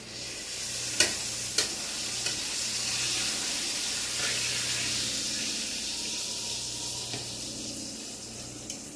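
Chicken pieces sizzling as they fry in a pan, the sizzle swelling in the first second and easing off toward the end. Two sharp clicks about a second in.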